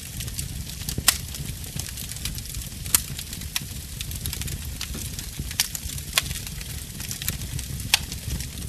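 Wood fire in a fireplace crackling: irregular sharp pops and snaps over a steady low rumble and soft hiss, with a few louder pops.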